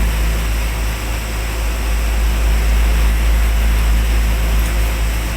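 Oxygen plant machinery running steadily: a loud, deep low hum with a steady hiss over it.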